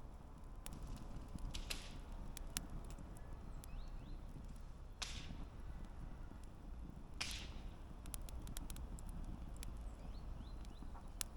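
Wood campfire crackling: scattered sharp pops and snaps over a low, steady rumble of burning flames, with three brief, louder hissing crackles.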